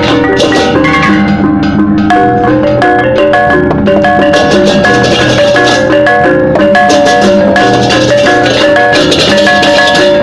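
Balinese gamelan music: tuned bronze mallet instruments and gongs playing quick interlocking notes over drums and percussion, with a steady, driving rhythm.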